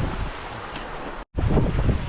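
Wind buffeting the microphone in heavy low gusts over a steady rush of noise, broken by a brief dropout just past the middle.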